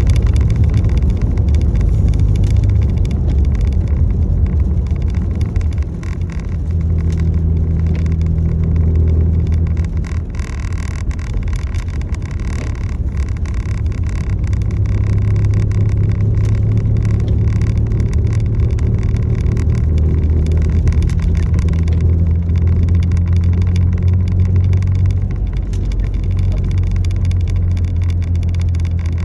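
A motor vehicle running steadily, a low engine drone over a constant hiss.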